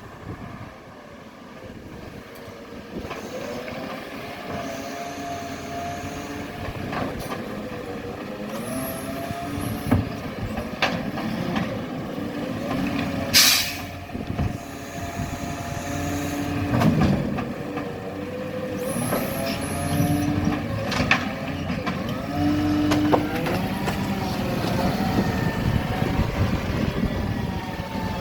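Garbage truck working: its engine revs up and down repeatedly, with short steady tones and several sharp knocks. A loud, short hiss of air comes about halfway through.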